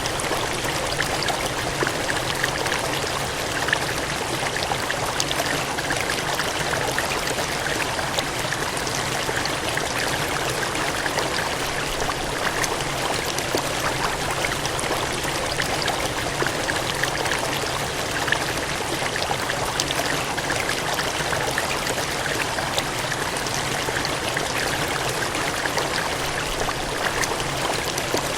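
Water gushing and cascading in a steady, unbroken rush with fine splashing crackle, unchanging throughout.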